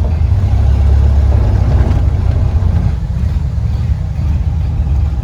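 1931 Ford Model A pickup's four-cylinder flathead engine running with a steady low drone that eases off about three seconds in. The engine still runs a little rough and needs its distributor points adjusted, says the owner.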